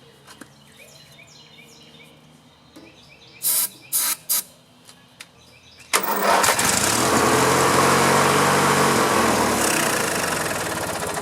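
Riding lawn mower's opposed-twin engine being cranked, starting suddenly about six seconds in and running on for about five seconds before fading near the end; the owner suspects the engine is not getting fuel. Three short knocks come a few seconds before it.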